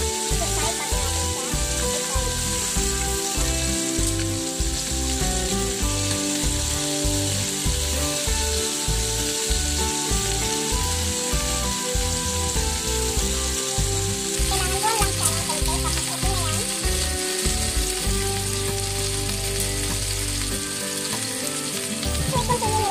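Chicken pieces sizzling in hot oil in a frying pan, a steady frying hiss. Background music with a steady beat plays underneath.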